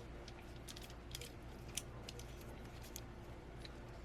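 Small plastic mounting-adapter pieces being handled and pushed together by hand: faint scattered clicks and scrapes, with one sharper click a little under two seconds in.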